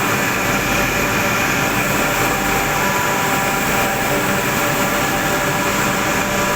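Engine of a water pump running steadily at constant speed, a continuous mechanical drone with a steady hum.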